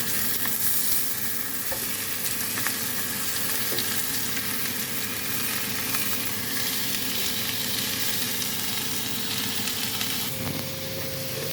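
Food sizzling steadily in a hot pan, with a faint steady hum underneath and a few light clicks.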